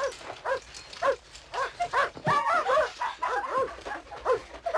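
A dog barking repeatedly, about two barks a second, with a denser, more tangled stretch of barking in the middle.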